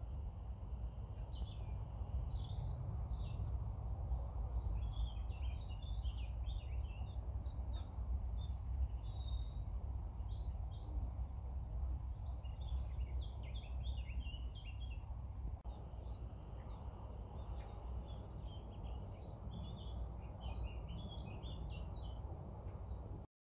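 Several small birds chirping and singing in quick, overlapping notes, over a steady low rumble of background noise; it all cuts off abruptly near the end.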